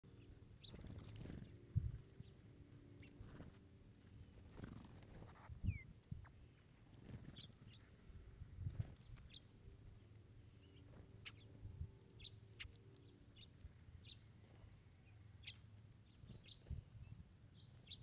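Faint, scattered short chips and calls of songbirds, with one short rising call a few seconds in. Soft low thumps come now and then.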